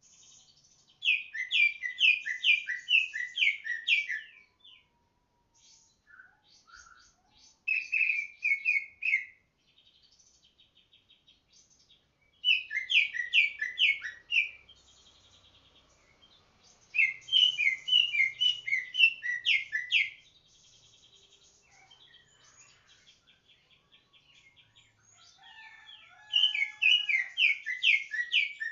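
Green leafbird (cucak ijo) singing loudly in five bursts of rapid, sharp repeated notes, each a couple of seconds long, with softer high twittering between the bursts.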